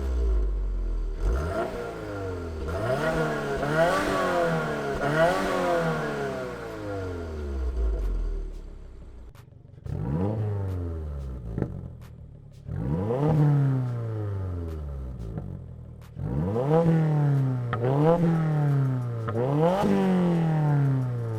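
Subaru WRX turbocharged flat-four engine revved through an axle-back exhaust: a series of quick throttle blips that rise and fall in pitch, settling back toward idle between them. There is a cluster of revs at first, then single blips, and a quick run of three near the end.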